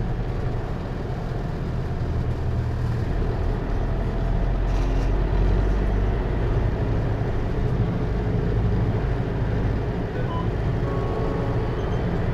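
Cabin sound of a Hino Liesse RX4JFEA microbus under way: its J05C diesel engine runs steadily, with road and tyre noise.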